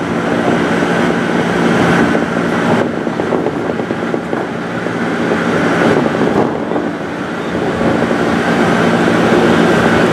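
Inside a 203-series electric commuter train as it slows into a station: a steady rumble of wheels on rails with a low hum underneath, which fades in the middle and comes back near the end.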